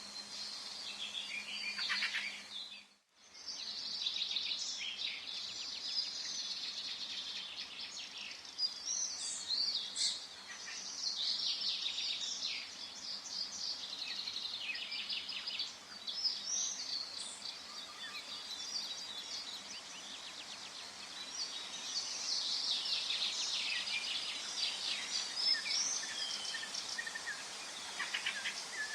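Forest birdsong: several birds chirping and trilling over one another, with a brief cut-out about three seconds in.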